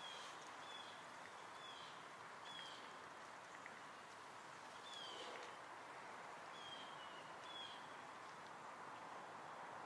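Faint outdoor ambience: a small bird repeating short, high, slightly falling chirps, roughly one a second, over a steady hiss.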